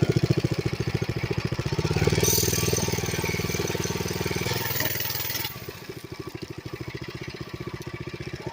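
Mini bike's small engine running with a steady rapid pulse. It gets louder from about two seconds in, then drops abruptly to a lower, quieter running level a little past halfway.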